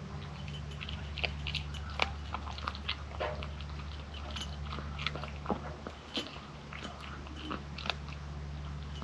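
Kitten eating, with irregular crunchy chewing and biting clicks over a steady low hum.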